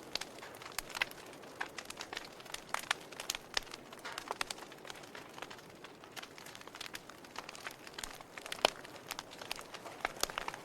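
Wood fire burning in a fireplace: irregular crackles and sharp pops over a soft steady hiss, with one louder pop about eight and a half seconds in.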